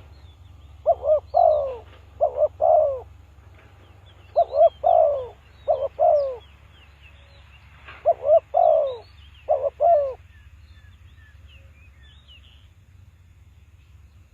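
Spotted dove cooing: three repeats of its short multi-note coo phrase, each a couple of seconds long, ending about two-thirds of the way through. Faint high chirps of small birds and a low steady hum lie beneath.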